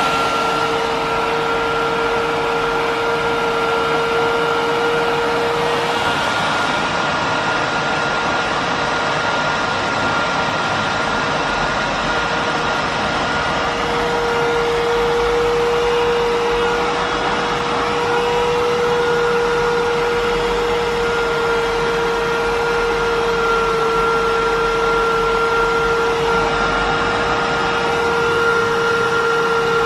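Miele S8310 canister vacuum cleaner with its 2200-watt motor running steadily at full power, a constant high whine over the rush of air drawn through the canister.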